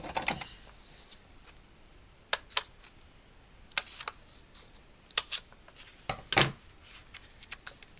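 Cardstock pieces and adhesive foam dots being handled and pressed down on a tabletop: scattered sharp clicks and taps, with a slightly longer rustle a little after six seconds.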